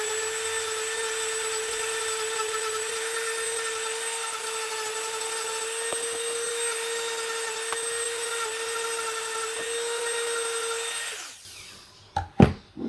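Handheld rotary engraver tool running at a steady high speed with a steady whine, cleaning the grease and oil off a contaminated hydraulic disc brake pad. About 11 seconds in it is switched off and winds down, followed by a few sharp knocks.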